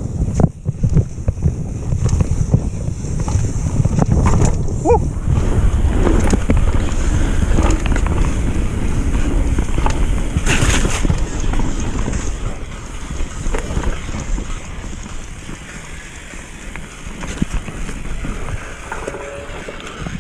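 Mountain bike descending a rough downhill trail: wind buffeting the rider-mounted microphone over a steady rumble, with the bike's frame and parts clattering and rattling over the bumps. It quietens somewhat over the last few seconds.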